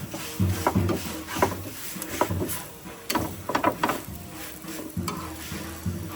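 A utensil stirring and scraping in a cooking pan, with irregular knocks against the pan and a light sizzle.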